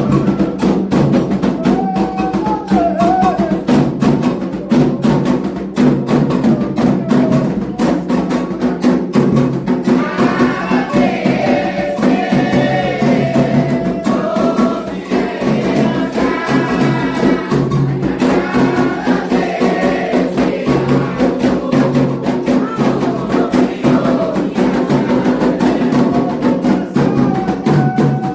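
Candomblé ritual drumming: atabaque hand drums and a struck bell keep up a fast, steady rhythm for Iemanjá. Voices sing a chant over the drums, becoming full group singing about ten seconds in.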